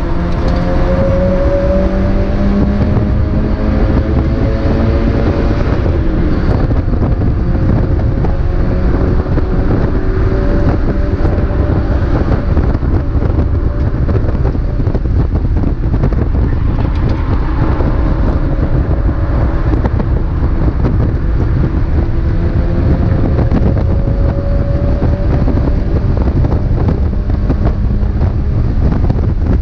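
Mazda MX-5 race car's four-cylinder engine running hard at speed, its note rising and easing slowly with engine speed, over heavy wind and road noise.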